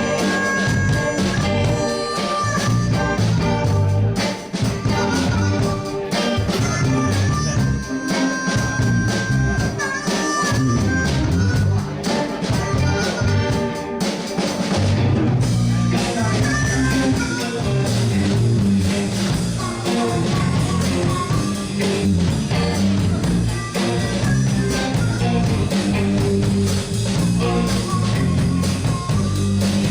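A blues band playing an instrumental passage with steady bass and drum kit, guitar, and harmonica playing held, bending notes.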